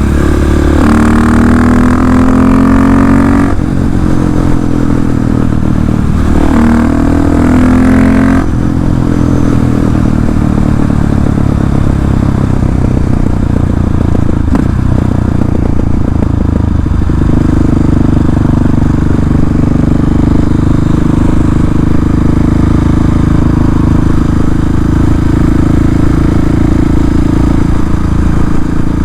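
KTM 690 SMC-R single-cylinder engine through an open Arrow exhaust with the dB-eater removed, pulling hard twice with revs rising in the first eight seconds and a sudden drop after each pull as it shifts up, then running at a steady speed.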